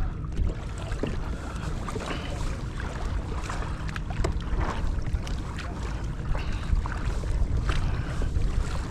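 Wind rumbling on the microphone, with water splashing and slapping against a kayak hull in a choppy sea swell.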